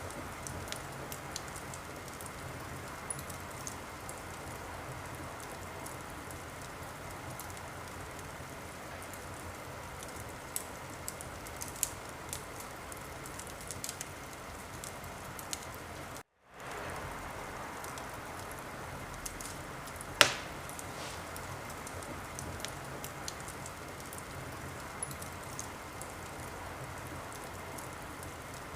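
Wood fire in a fireplace crackling: a steady hiss of flames with scattered small snaps and one loud pop about twenty seconds in. The sound cuts out for a moment about sixteen seconds in.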